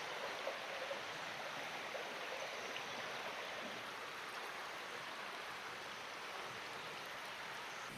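Steady rushing of flowing river or stream water, an even hiss with no change throughout.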